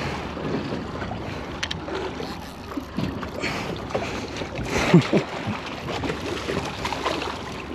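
Wind and water noise aboard a small boat at sea, with a few sharp knocks and a short falling pitched sound about five seconds in.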